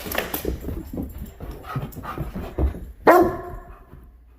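German Shepherd puppy making short scattered noises, then letting out a single loud bark about three seconds in.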